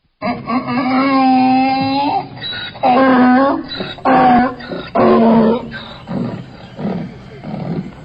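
Donkey braying: a run of loud, pitched hee-haw calls. One long call comes first, then shorter ones about a second apart, growing weaker near the end.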